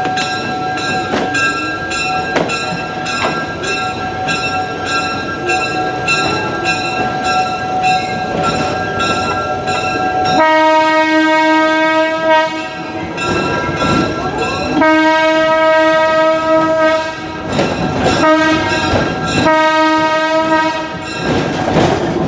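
Moving train: wheels click regularly over rail joints under a steady ringing tone. About halfway through, the locomotive horn sounds in several blasts, some long and some short.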